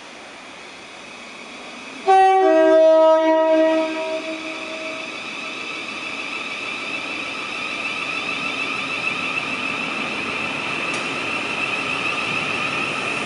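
Electric multiple-unit train, a Southwestern Railway Class 707, sounds a loud two-tone horn, a higher note dropping to a lower one, for about a second and a half. Then a steady electric traction whine builds gradually as the train pulls away.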